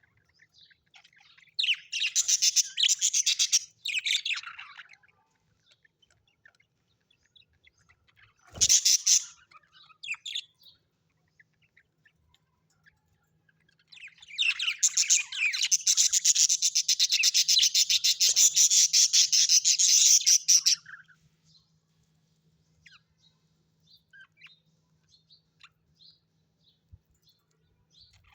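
Small parrots chirping and chattering in three bouts, with a short burst in the middle and a long, fast, buzzy chatter later on.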